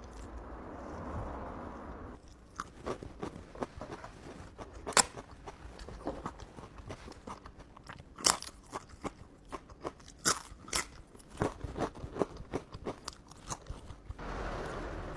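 A person eating close to the microphone, mukbang-style: irregular crisp chewing and crunching clicks begin about two seconds in and run until near the end, with the loudest about five seconds in. A softer steady noise comes before and after them.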